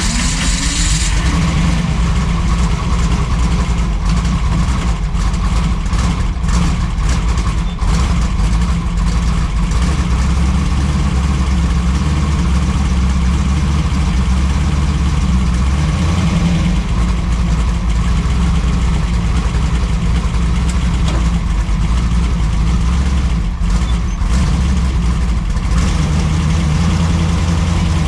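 Car engine running steadily with a strong low rumble.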